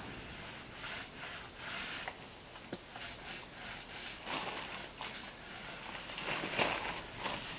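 Foam roller rolling varnish onto a wooden transom: a series of short rubbing, swishing strokes, the loudest near the end.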